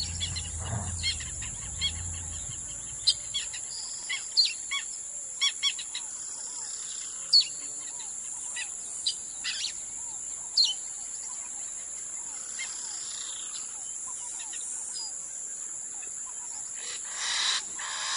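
Outdoor wildlife ambience: birds giving scattered short chirps over a steady high-pitched drone, with a low hum that fades out a few seconds in and a brief louder noisy swell near the end.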